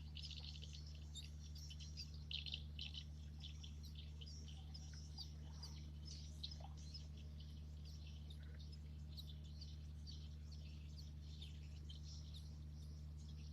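Faint outdoor ambience of small birds chirping in quick, short notes, busiest around two to three seconds in, over a steady low hum.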